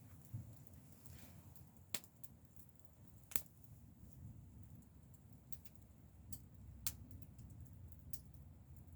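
Wood fire crackling: sharp, irregular pops of burning wood every second or two, the loudest about three and a half seconds in, over a low rumble.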